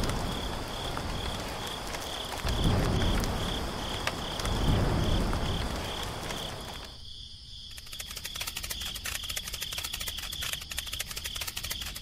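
A small engine running, its sound swelling and falling three times. After a sudden cut it gives way to a fast, even ticking. A high, evenly pulsing chirp runs throughout.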